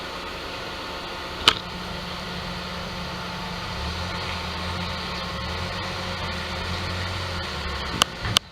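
Mazda Demio engine idling with a steady hum and drone, the abnormal noise that comes from play in the alternator's rotor shaft. A sharp click about a second and a half in, and a few more clicks near the end.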